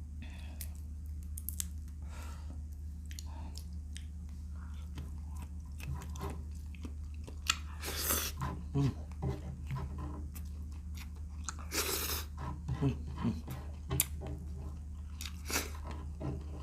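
Close-up chewing and biting into paksiw shrimp, with irregular crunches and wet mouth clicks, the loudest bursts around the middle and near the end. A steady low hum runs underneath.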